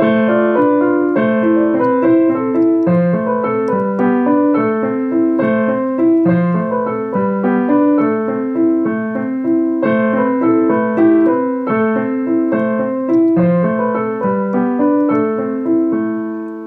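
Piano playing a slow melody of single notes over a repeated lower accompaniment, fading out near the end.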